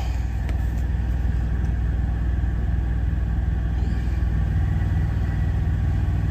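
Steady low rumble of a semi-truck's diesel engine idling.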